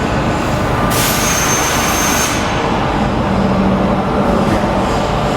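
Press brake running through a fold on a steel hinge blank: a steady machine noise, with a stretch of high hiss about a second in and a low hum swelling around three seconds in.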